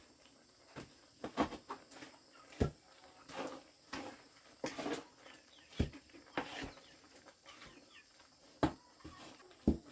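Chickens clucking, mixed with irregular sharp knocks and taps.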